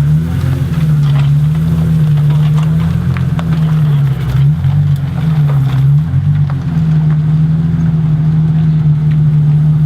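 Car engine running steadily at low revs while the car is slowly manoeuvred, its pitch wobbling briefly about four and a half and six seconds in.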